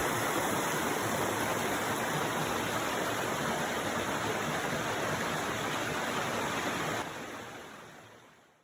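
Mountain stream rushing steadily, fading out over the last second and a half.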